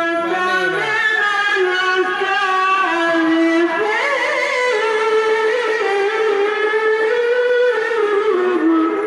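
A qari chanting the Qur'an in one long melismatic phrase: a high held voice with wavering ornaments, its pitch stepping up about four seconds in and sinking again near the end.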